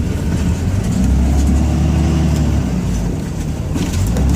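Ram 2500 pickup's Cummins diesel engine running steadily, a low rumble heard from inside the cab as the truck works through the lot plowing snow.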